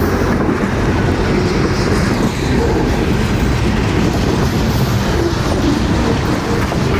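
A train running past close by: a loud, steady rumble of wheels on the rails.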